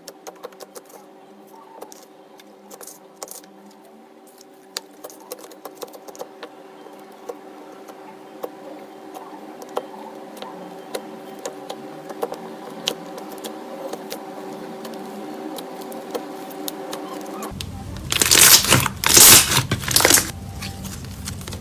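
Slime being handled close to the microphone: small sticky clicks and crackles over a faint steady hum. About eighteen seconds in, it turns into louder, repeated squishing and pressing.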